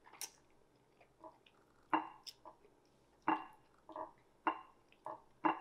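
Close-up chewing and lip-smacking on a mouthful of plantain fufu with groundnut soup: a string of short wet mouth sounds, about one every half second.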